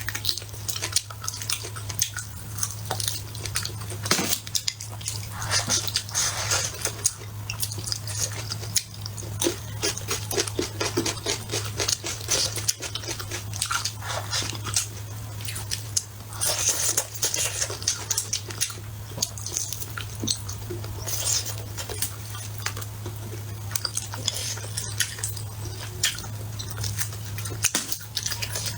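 Close-miked eating: chewing and biting into spicy braised pork ribs, a dense run of small wet clicks and crunches, over a steady low hum.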